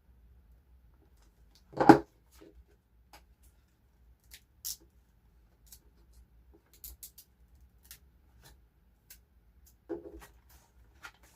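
Paper stickers being cut out and handled: scattered small clicks and rustles, with one louder knock about two seconds in.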